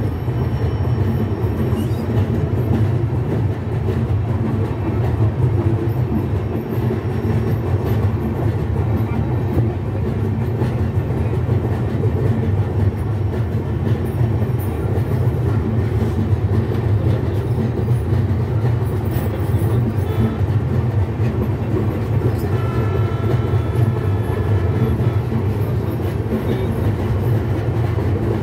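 Passenger train running along the rails, heard from beside the carriage. It makes a steady, continuous rumble of wheels and carriage.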